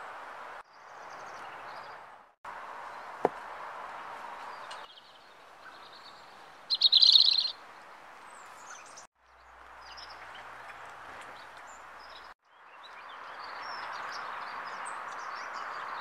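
Small garden birds chirping over a steady outdoor background hiss, with one loud, short, high-pitched call about seven seconds in. The sound cuts out abruptly several times where the clips are joined.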